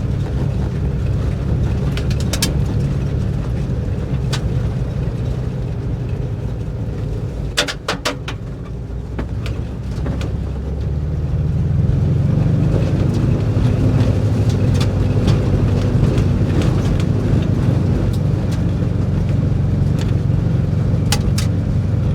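1958 Volkswagen bus driving a rough, rocky dirt trail: a steady engine drone with scattered knocks and rattles, a small cluster of them about eight seconds in. The engine dips briefly, then runs louder from about eleven seconds on.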